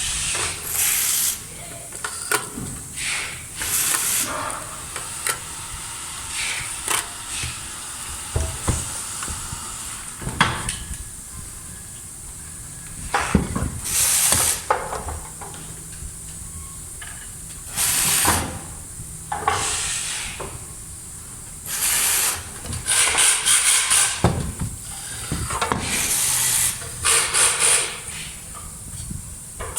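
Handling noise from assembling the flood light: irregular bursts of scraping and rustling with a few light clicks, over a steady high hiss.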